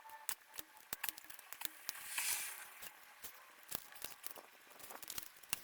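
Small scattered metallic clicks and scrapes of vice grips working an old stud loose from a Kubota exhaust manifold, with a brief rasping hiss about two seconds in.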